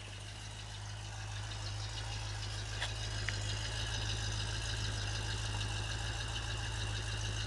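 1972 Ford Torino's 351 V8 idling steadily shortly after a cold start, growing louder over the first couple of seconds and then holding even. Two faint clicks come about three seconds in.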